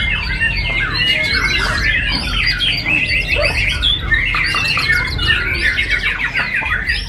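Many caged songbirds singing and calling at once in a dense, unbroken chorus of overlapping fast chirps, trills and squawks. A steady low hum runs underneath.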